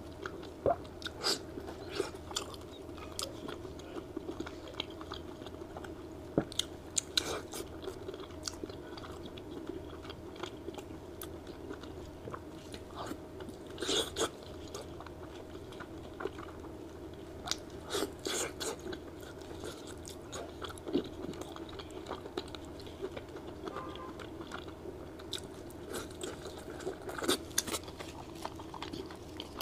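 Close-miked chewing of braised pork belly wrapped in lettuce leaves: irregular wet smacks and bites with crisp crunches of the lettuce, in small clusters, over a steady low hum.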